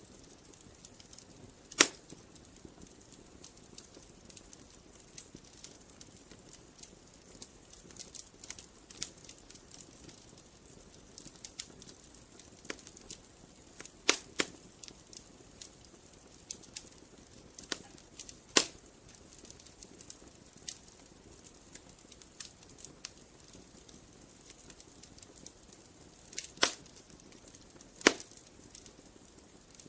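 Wood fire crackling: scattered small ticks over a soft hiss, with five or so sharper pops spread through.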